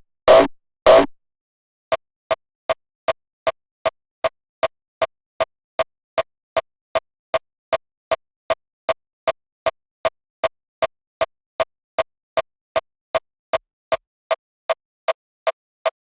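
Short, sharp electronic drum hits with little deep bass, repeating steadily about two and a half times a second (around 160 BPM). It opens with two louder, fuller hits about a second apart. It sounds like a hardstyle kick layer being looped in Ableton Live while it is being designed.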